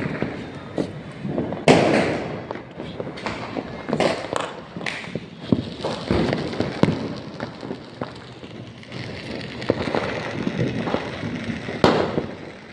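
Fireworks and firecrackers going off in a rapid irregular series of bangs and crackles, with loud bursts about two seconds in and near the end.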